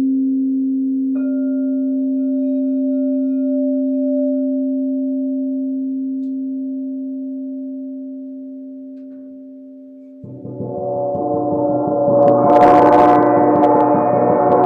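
Crystal singing bowls ringing with steady pure tones, a higher one joining about a second in, the sound slowly fading. About ten seconds in a gong comes in and swells into a loud, shimmering wash of many overtones.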